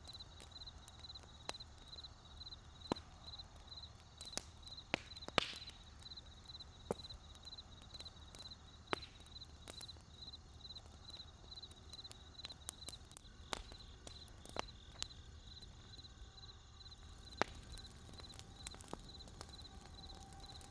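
Wood campfire crackling: irregular sharp pops and snaps, a few louder ones in the middle and near the end. Under it, a high chirp repeats steadily about twice a second.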